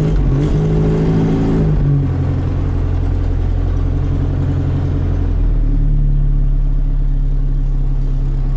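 Citroën Traction Avant engine running steadily just after a cold start on choke. Its note drops about two seconds in and shifts again a little past halfway as it settles into a smooth, humming idle.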